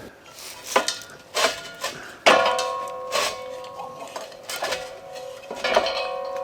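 Metal clinks and knocks from turning a propane hose fitting on a propane tank. Two harder knocks, a little over two seconds in and near the end, set off a ringing tone that fades slowly.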